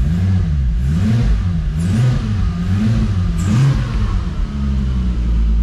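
Turbocharged VR6 engine swapped into a Mk3 Toyota MR2, revved in several quick throttle blips that rise and fall, then settling to a steady idle about four seconds in. The engine is running normally after being reconnected.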